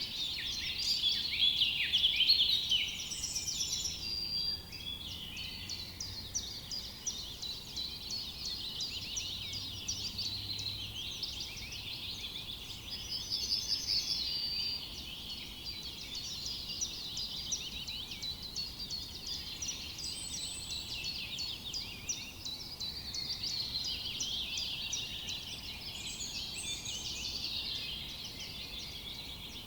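A chorus of many songbirds calling and singing at once: dense, overlapping high chirps and short trills, loudest in the first few seconds.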